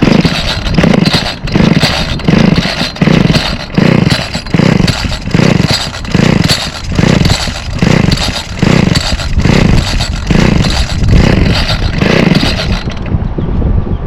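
Recoil starter of a 25cc two-stroke Homelite string trimmer pulled over and over on choke, about one pull every 0.8 s, with the engine not catching. The pulls stop about 13 seconds in.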